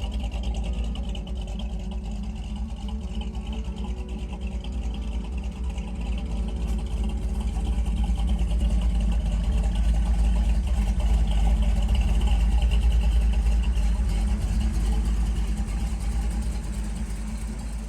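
Engine of a 1930 Ford roadster hiboy street rod running with a low rumble. It grows louder toward the middle and fades near the end.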